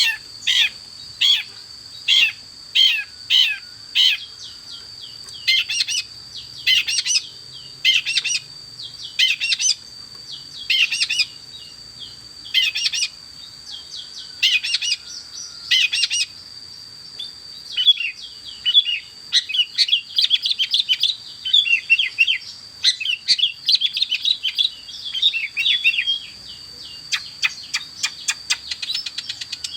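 Long-tailed shrike (pentet) singing in loud, rapid chirping phrases, its song packed with mimicked notes. It starts with separate calls about twice a second and moves into denser, varied runs, with quick ticking notes near the end. A steady high thin whine runs underneath.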